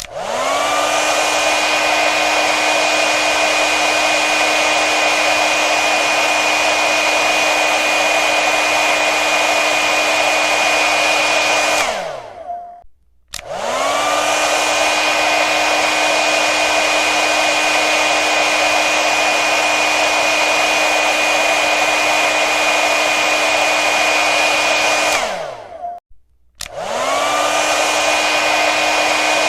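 Hair dryer running with a steady rush of air and motor whine. It is switched off twice, about 12 and 25 seconds in, its motor pitch falling as it spins down, and switched back on after a brief silence each time, the whine rising back up to speed.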